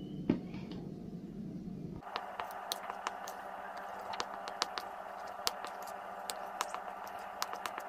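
Yeast dough being mixed with the last of the flour in a bowl: soft scraping with irregular small sticky clicks and pops, over a faint steady hum.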